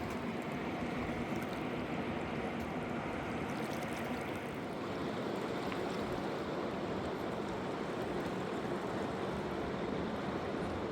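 Steady rush of a fast mountain river.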